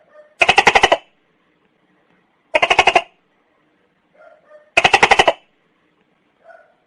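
Tokay gecko calling: three short bursts of rapid pulses, each about half a second long, spaced about two seconds apart.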